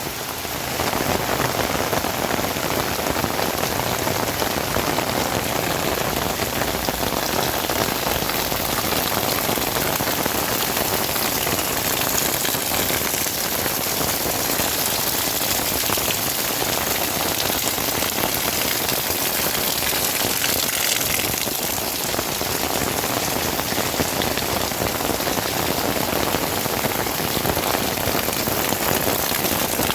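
Heavy rain falling steadily, a dense even hiss of drops hitting surfaces, dipping slightly in level once about two-thirds of the way through.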